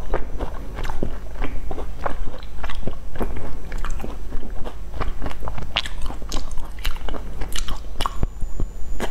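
Close-miked chewing and biting of sesame-coated pastry pieces: an irregular run of sharp crunchy clicks and crackles, several a second.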